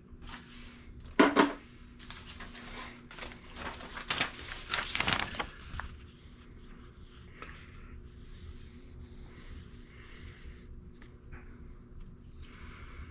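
Knocks and clatter of objects being handled: a sharp knock about a second in, then a run of clattering from about four to six seconds, and faint rustling after, over a low steady hum.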